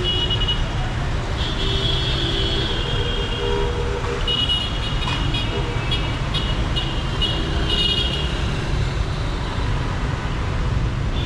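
Dense city traffic: engines rumbling steadily under repeated short horn toots, with several honks in quick succession around the middle.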